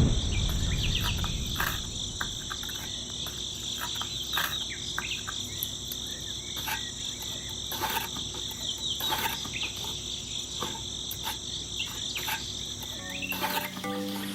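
Steady, high-pitched insect trill like crickets, with scattered short chirps and clicks over it. A low rumble fades out during the first second or so.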